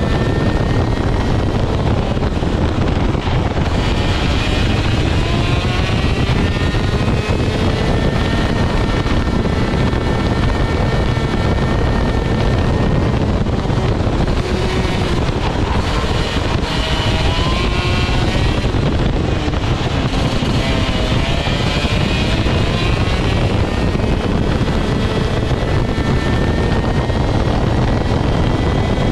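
Rok GP 125cc two-stroke kart engine heard on board at speed, its revs climbing and dropping again several times as it laps.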